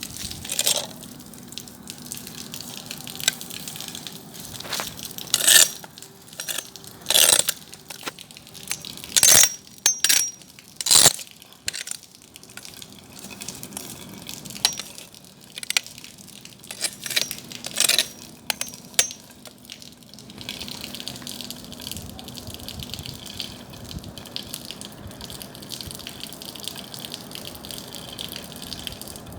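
Bonfire burning: wood snapping and popping in loud sharp cracks, several in quick succession, then settling about two-thirds of the way through into a steady hiss of flame with fainter crackling.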